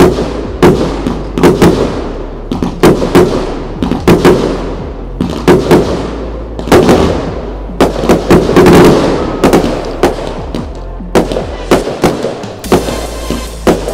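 Display fireworks going off in quick succession: a run of loud bangs, sometimes several in a second, each trailing off in a fading echo.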